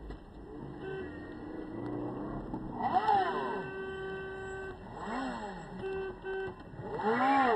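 Road traffic heard from a car: vehicles swish past close by three times, about two seconds apart, over a steady hum.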